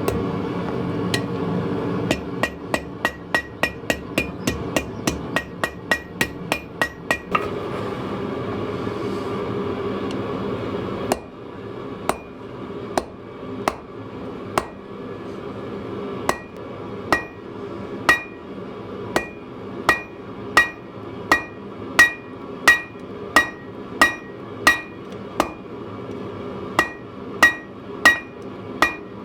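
Blacksmith's hammer striking steel on an anvil, each blow ringing out. The blows come quickly, about three a second, at first, then settle into slower, heavier strikes about one and a half a second apart. A steady rushing noise sits under the hammering and drops away about eleven seconds in.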